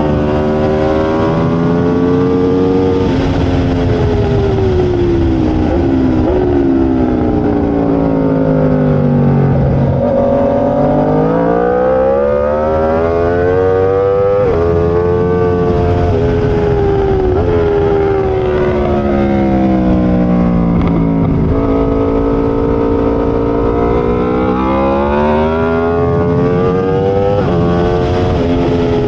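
Aprilia RSV4 V4 sportbike engine at full race pace: revs climb hard, step down at each upshift, then fall away in a run of downshifts when braking. It slows twice, around ten and twenty seconds in.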